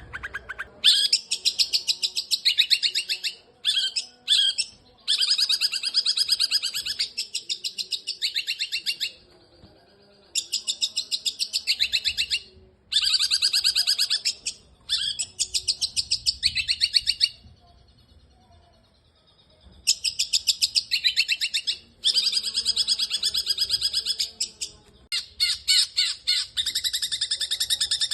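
Long-tailed shrike (cendet) singing in fast trains of high, rattling chirps. The bursts last one to a few seconds each and are broken by short pauses, with a longer pause a little past the middle.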